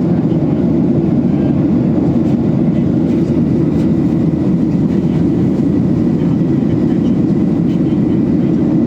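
Steady engine and airflow noise heard inside the cabin of a jet airliner in flight: an even, low rumbling hiss that does not change.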